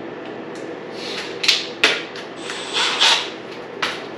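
Hand tools removing the small battery ground bolts on a dirt bike: a few sharp metal clicks and a short scraping rattle, over a steady background hum.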